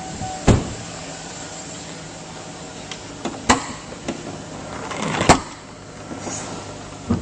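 Sharp clunks and knocks of a truck's hood being released and swung open, the loudest about five seconds in, over the steady low hum of the 5.3-litre V8 idling quietly and smoothly.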